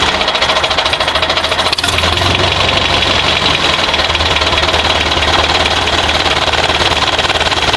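A small motor running steadily, with a fast, even rattle and a high steady whine.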